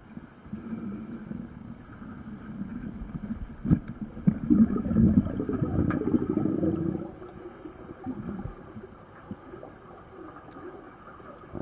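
Muffled water sounds with gurgling and bubbling, swelling about four seconds in and easing off around seven seconds, with a few sharp clicks.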